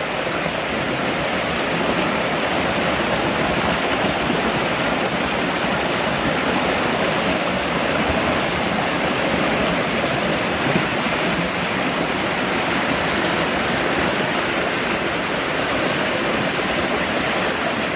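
Loud, steady rushing of a rainforest river.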